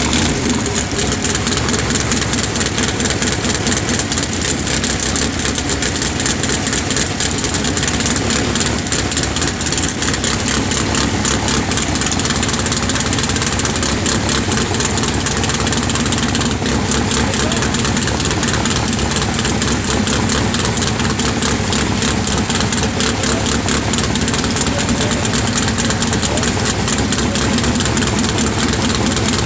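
Pro Comp drag racing engine running at idle in a cackle fest, loud and steady with a rapid crackling beat of exhaust pulses.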